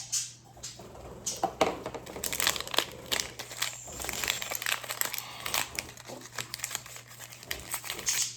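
Plastic wrapping crinkling and tearing as a blind-pack toy tube is opened and the figure unwrapped, in quick, irregular rustles.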